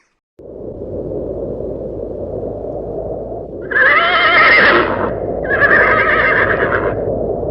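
A horse whinnying twice, each call a little over a second long with a wavering, quavering pitch, over a steady background rush of noise.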